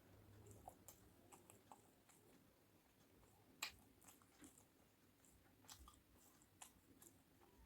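A person chewing a mouthful of food, with scattered faint mouth clicks and one sharper click about three and a half seconds in.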